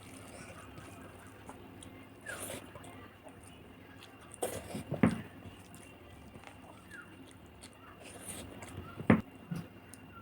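Close-miked eating: chewing and mouth sounds broken by a few short, sharp crunches or clicks, the loudest about five seconds in and again near nine seconds.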